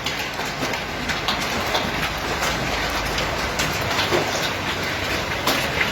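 Hail falling hard: a dense steady hiss with many irregular sharp clicks of hailstones striking hard surfaces.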